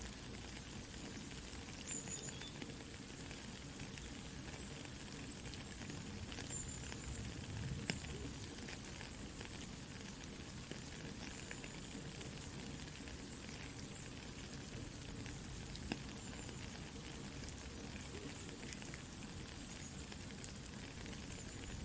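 Soft rain falling steadily together with a crackling campfire: an even hiss of rain with scattered sharp pops and crackles from the burning wood.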